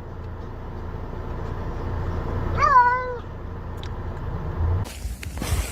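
A domestic cat meows once, about two and a half seconds in: a single call of about half a second whose pitch rises and then levels off. A steady low rumble runs beneath it and stops near the end.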